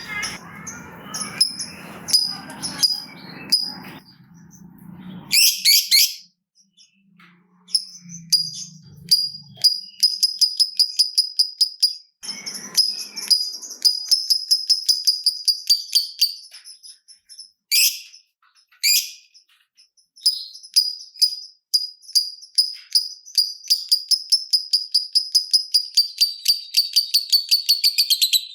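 Lovebird giving long 'ngekek' chatter: fast runs of sharp, high, repeated chirps, several a second, in bursts lasting several seconds. The longest run comes near the end, and there is noisier chatter with clicks in the first few seconds.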